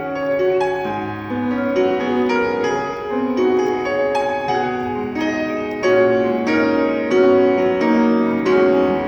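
Ambient music: a stream of struck, ringing notes that overlap and sustain, with a few new notes coming in each second.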